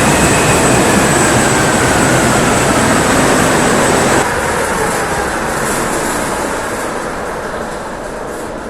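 Mitsubishi 16-cylinder diesel generator set running loud, with a faint whine falling in pitch. About four seconds in the noise drops suddenly, then keeps fading.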